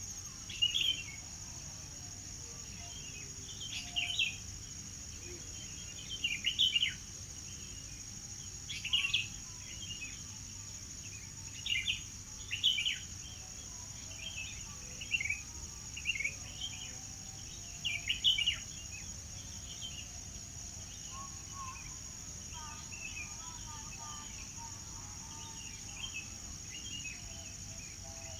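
Birds calling in short, falling chirps every second or two, fainter after about two-thirds of the way through, over a steady high-pitched insect drone.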